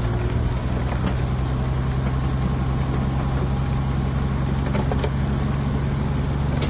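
Heavy diesel earthmoving machine's engine running steadily at a low, even pitch, with a few short metallic clanks.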